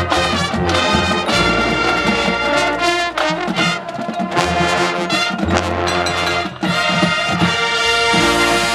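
A marching band plays loudly, its brass section (trumpets and trombones) carrying the tune over drums and low bass notes. The music keeps going, with sharp percussion hits and a brief dip near the end.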